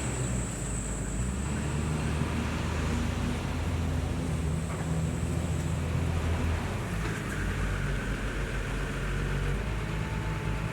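Heavy diesel construction machinery engine running, its pitch rising and falling with load, with a thin high whine that comes and goes in the first six seconds or so.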